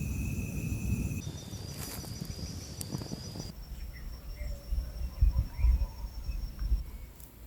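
Insects keeping up a steady, high-pitched trill whose pitch jumps abruptly twice. Low thumps or rumbles sound beneath it in the second half.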